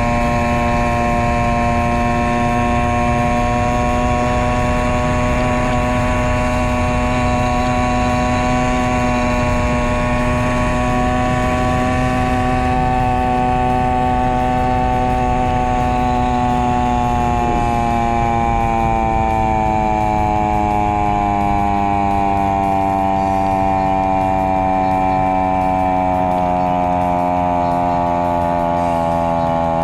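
Honda Monkey (Z50J) small single-cylinder engine pulling steadily, heard onboard and played back at double speed, so its note is raised. The revs sag slowly through the second half.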